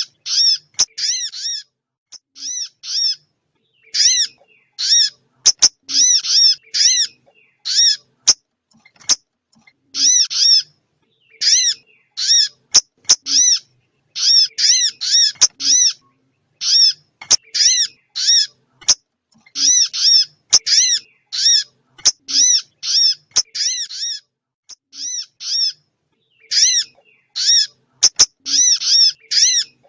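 Lure recording of small songbird calls: quick, high, arching call notes in bursts of two to five, repeated over and over with short gaps. Sharp clicks are heard between some bursts.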